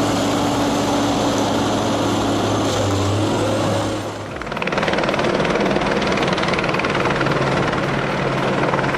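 Helicopter running steadily with its turbine and rotor, likely one carrying a suspended aerial tree saw. About four seconds in the sound shifts to a fast, even rotor flutter.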